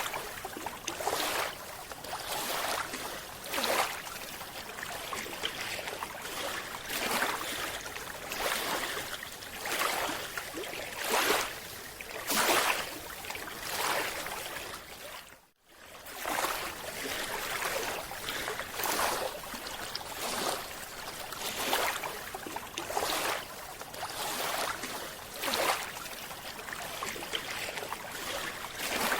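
Underwater recording of a scuba diver's exhaled bubbles rushing from the regulator, a surge of bubbling hiss every second or two. The sound cuts out for an instant about halfway through, then carries on.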